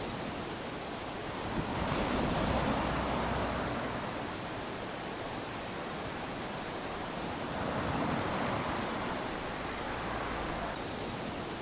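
Small waves breaking and washing up onto a sandy shore, a steady hiss that swells twice as waves come in, about two seconds in and again about eight seconds in.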